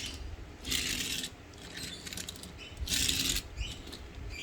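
Small toy freight truck's plastic wheels rolling and rattling across a surface, pushed twice in short runs, each about half a second long, about two seconds apart.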